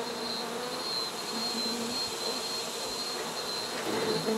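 Many honey bees buzzing in a steady, even hum around the opened hive.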